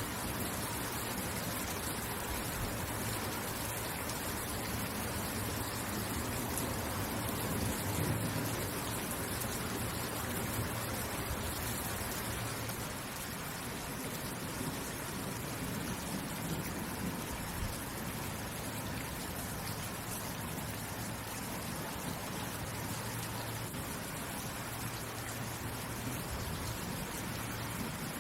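Steady rain falling, an even hiss with scattered drop ticks, and a low rumble that swells and fades underneath.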